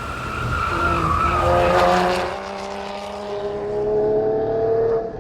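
Porsche GT4's flat-six engine driven hard on track: tyres squealing through a corner in the first half, then the engine pulling up through the revs with its pitch climbing steadily until it cuts off sharply near the end.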